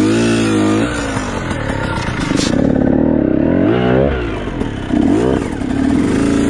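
Dirt bike engine revving as the bike is ridden slowly over rough, steep trail, its pitch rising and falling again and again as the throttle is opened and closed.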